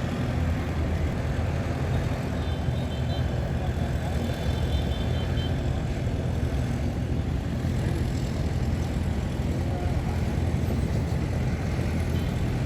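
Heavy earthmoving machinery's diesel engine running steadily, a low even hum.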